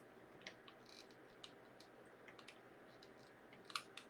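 Near silence with a handful of faint small clicks about a second apart, from handling on the craft table while glue is applied.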